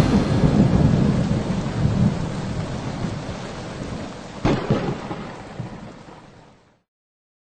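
Rain falling with rumbling thunder, growing gradually fainter. About four and a half seconds in there is a sharp thunderclap with a rolling tail, and then the storm fades out shortly before the end.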